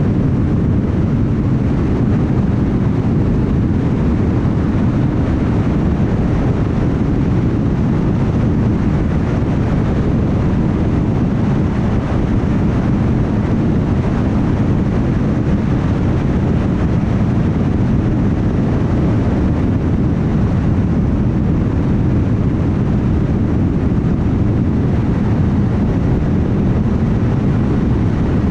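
Steady road and tyre noise of a car cruising at highway speed: an even low rumble that doesn't change.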